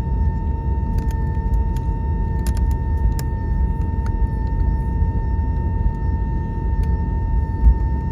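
Airbus A321 cabin noise: a steady low rumble with a constant whine over it and a few faint clicks. A brief low bump comes near the end.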